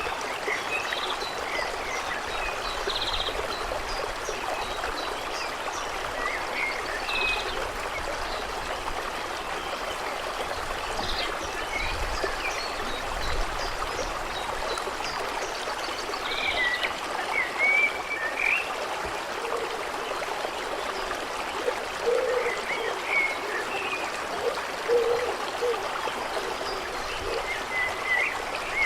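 A stream running steadily, with birds chirping and calling now and then over it.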